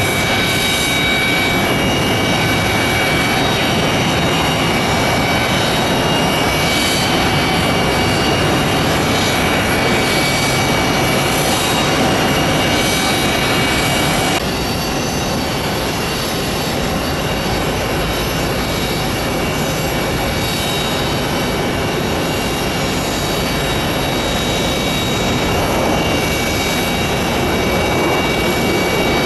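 Aircraft engines running on landing: first a Fairchild Metroliner twin turboprop, then, after an abrupt cut about halfway through, a Boeing 737-800 jet on landing. It is a steady, full engine noise throughout, with a few steady high tones.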